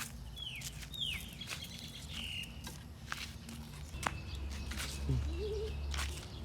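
Two short, falling bird chirps about half a second apart near the start, over scattered sharp clicks and rustling.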